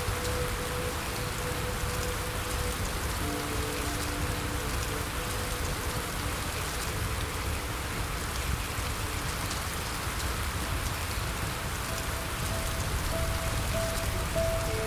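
Steady rain, a dense even hiss with a low rumble underneath. Faint soft music notes are held long in the background.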